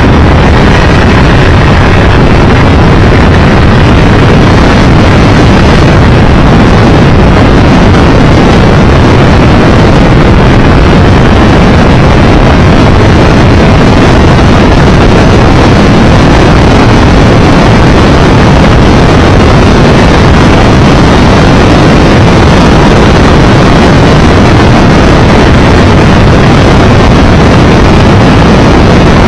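Loud, steady wind rush and road noise on the microphone of a Triumph Tiger Explorer 1200 motorcycle under way, with no change through the whole stretch.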